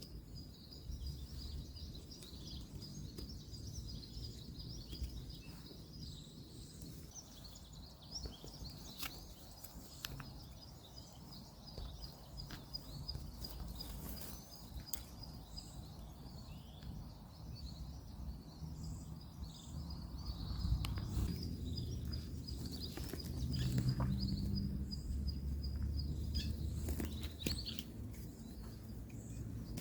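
Woodland ambience: a steady, high-pitched pulsing chirr runs through most of it. Low distant road traffic rumbles underneath, swelling about two-thirds of the way through. A few light, sharp clicks are scattered across it.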